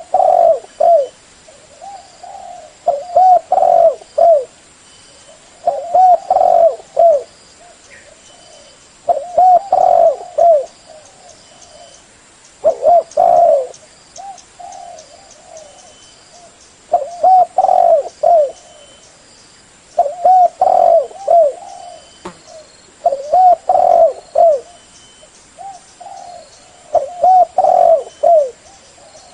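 Spotted dove cooing loudly in repeated phrases of several low, rounded coos, one phrase every three to four seconds.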